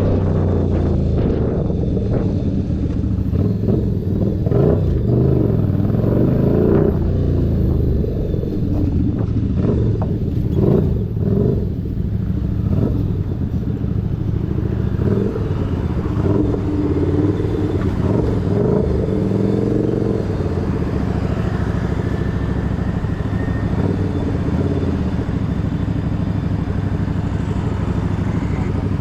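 Keeway SCR 250 V-twin motorcycle engine running through a Racefit free-flow exhaust. The revs rise and fall a few times in the first half, then it runs steadily.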